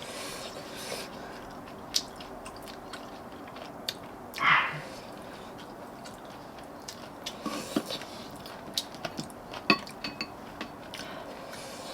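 Eating sounds: chewing, with scattered sharp clicks of chopsticks and spoons on dishes. One short, louder sound breaks in about four and a half seconds in.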